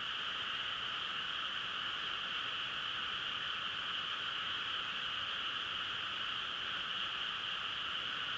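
A dense chorus of frogs calling all at once, the calls merging into a steady, even drone with no breaks.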